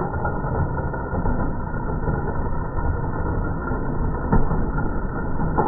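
A Lionel gang car, a toy-train motorized unit, running on track: a steady electric-motor and wheel rumble with a few short clicks, the loudest about four seconds in.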